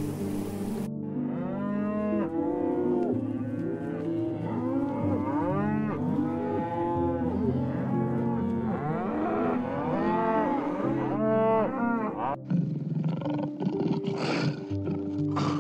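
Bison calling: many overlapping lowing calls, each rising and falling in pitch, over soft piano music. The calls stop about twelve seconds in.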